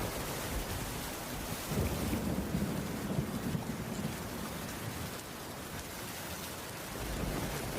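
Steady heavy rain, with a low rumble that swells about two seconds in and dies away by about four seconds.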